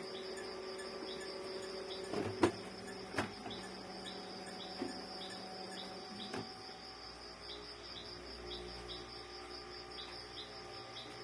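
Crickets chirping steadily in the background, with a short chirp repeating about every three-quarters of a second. A few sharp clicks come about two to three seconds in and again near six and a half seconds.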